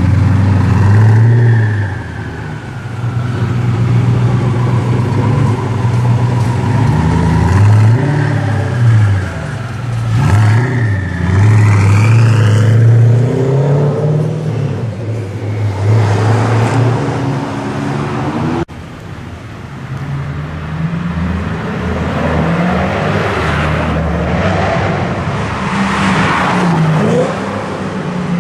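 Koenigsegg Agera R's twin-turbo V8 running at low speed, its revs swinging up and down, with a rising pull as it accelerates partway through. An abrupt cut about two thirds of the way in, after which the engine is heard again.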